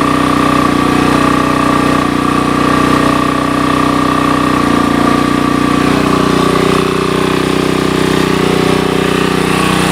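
Sportsman GEN2000 generator's small engine running steadily after a carburetor replacement; its note shifts slightly about halfway through.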